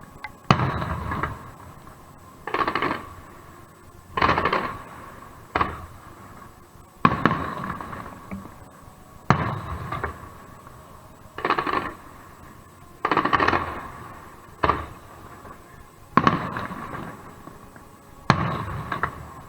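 Aerial fireworks shells bursting in a steady sequence, a sharp bang every one to two seconds, each bang trailing off in a short fading echo.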